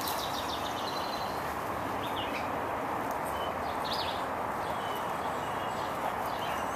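Birds chirping, short calls every couple of seconds, over a steady outdoor background hiss.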